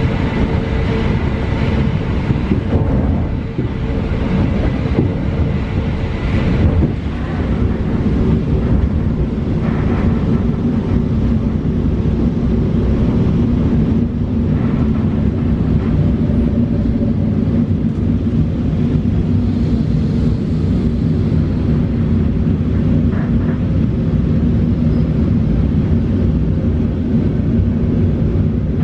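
Steady rumble of an EN71 electric multiple unit under way, heard from inside the passenger car: wheels on rail and running gear, with a low hum, as the train draws into a station.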